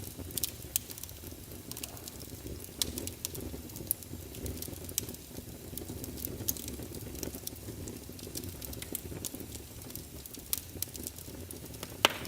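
Wood fire crackling in a fireplace: a steady low rumble of flames with frequent sharp pops and snaps, one louder pop near the end.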